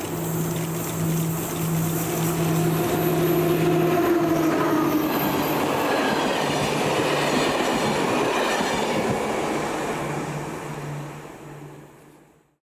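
A train passing on the rails: a steady hum with wheel and rail noise, and tones that drop in pitch around the middle as it goes by. The sound fades away near the end.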